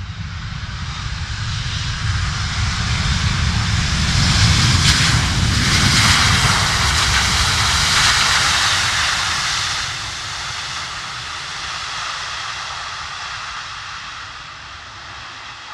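Three-engine Boeing 727 jet passing low on its landing approach: the engine noise swells to its loudest about five to nine seconds in, then fades away.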